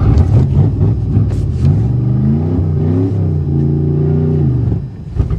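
Pontiac car engine revving hard in drive as it strains to pull out, its pitch climbing in steps, holding high for about a second, then dropping off near the end.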